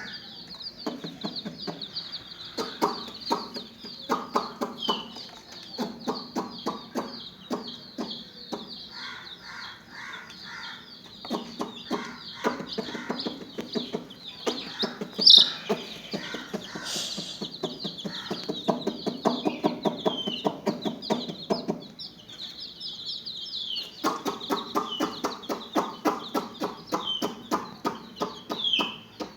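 A brood of chicks peeping constantly in short, high cheeps, with a hen clucking in runs of rapid low pulses over them; one louder, sharp call stands out about fifteen seconds in.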